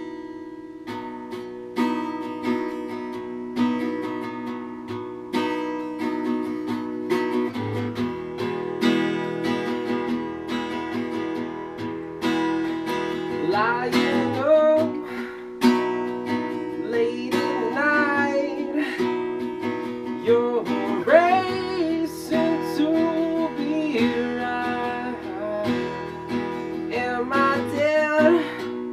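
Acoustic guitar strummed in a steady rhythm; about halfway in, a man starts singing over it.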